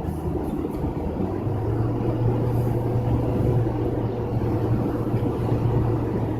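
Road and engine noise heard from inside a moving vehicle's cabin: a steady low rumble, with a deeper hum that grows stronger about a second and a half in.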